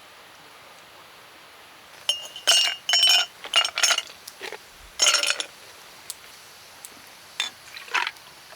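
A run of bright clinks and rattles, a glass or cup being knocked and handled, some ringing briefly, for about three seconds, then two fainter clicks near the end.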